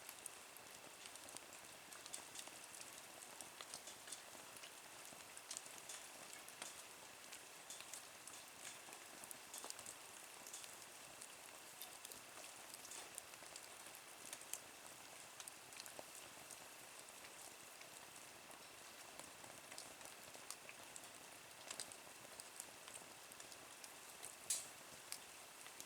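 Wood fire burning in a small camp wood stove, crackling faintly with scattered small ticks and pops, and two sharper pops near the end.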